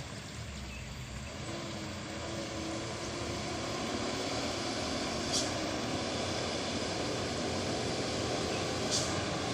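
Dump truck's diesel engine running steadily, its pitch and loudness slowly rising. Two short high clicks sound over it, about halfway and near the end.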